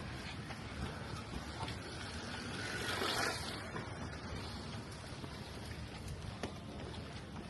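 Steady rain on a city street, with a vehicle passing on the wet road: its tyre hiss swells to a peak about three seconds in and fades. A few faint drips tick through the rain.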